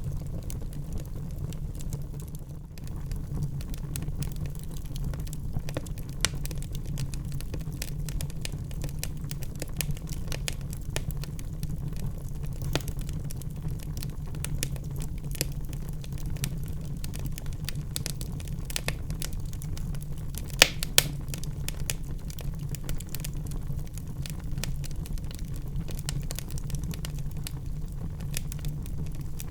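Wood fire burning in a fireplace: a steady low rumble of the flames with constant irregular crackling, and two sharper pops about two-thirds of the way through.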